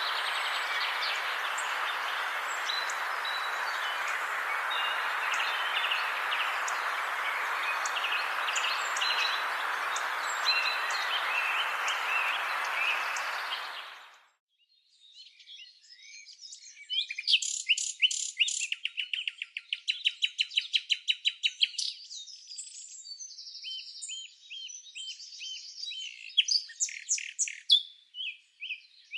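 Small birds chirping over a steady background noise that fades out about halfway through. After that, birdsong alone, with fast trills of rapidly repeated notes and shorter chirped phrases.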